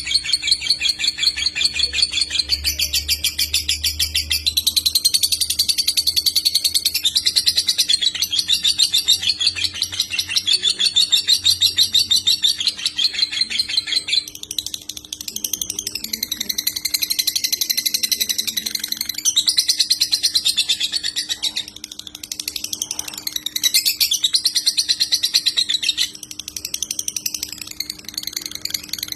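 Lovebird singing long, very rapid chattering trills in phrases of several seconds with short breaks between them, the fast-stuttering 'konslet' song style; a faint steady hum underneath.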